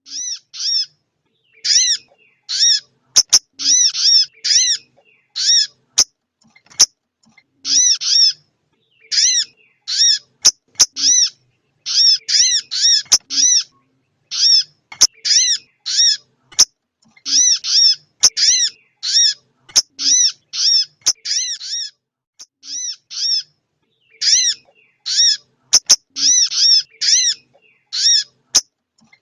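Little spiderhunter (sogok ontong) calling, the female's call used as a bird lure: short high chirps, each bending down in pitch, repeated in quick runs of two to five with brief pauses between. A few sharp clicks fall between the runs.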